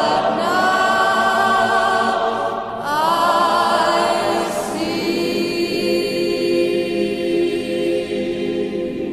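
Choir singing slow, long-held chords that change pitch a few times.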